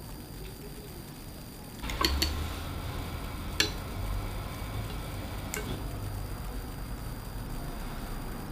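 Eating sounds at a table: a few sharp clinks against dishware about two seconds in, again near the middle and once more later, over a low rumble of handling.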